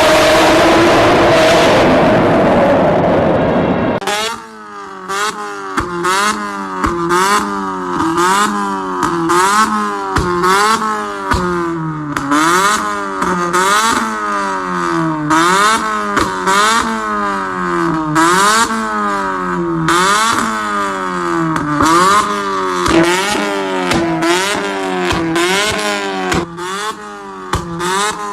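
A car engine with a loud aftermarket exhaust being revved over and over, its pitch climbing and dropping about once a second, with sharp pops and crackles between revs. For the first four seconds there is a loud rushing noise instead, which cuts off suddenly.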